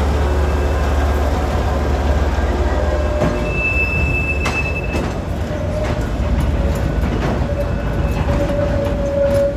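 Diesel-hauled freight train moving on the rails: a steady low rumble with wheels squealing in thin drawn-out tones, once around the middle and again near the end, and a few clicks from the wheels.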